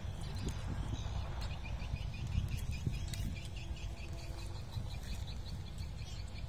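A small bird calling a quick, regular series of short high chirps, about four a second, starting a second or two in, over a steady low rumble of wind on the microphone.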